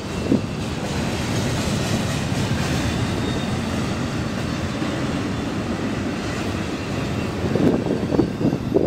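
Double-stack intermodal container cars of a freight train rolling past, with a steady rolling noise of steel wheels on the rails.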